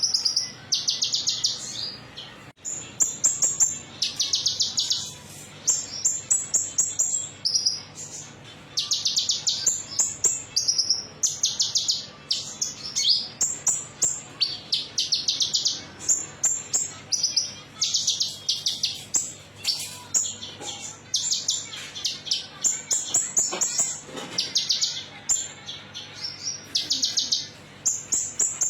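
Olive-backed sunbird (kolibri ninja) singing a metallic-toned song: fast high trills about a second long, repeated every few seconds, between rapid short chirps.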